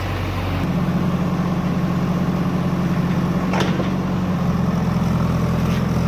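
Heavy diesel engine of a demolition machine running steadily, its pitch stepping up under more throttle about half a second in. A single sharp click comes about midway.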